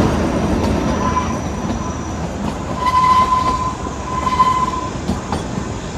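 Kalka–Shimla narrow-gauge toy train coach running along the track, a steady rattle and rumble of the wheels. A thin high squeal comes and goes over it, strongest about three seconds in and again a little later.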